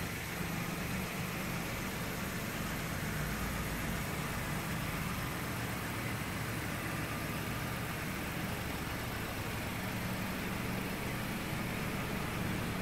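A 2019 Volkswagen Golf's 1.0 TSI three-cylinder turbo petrol engine idling steadily.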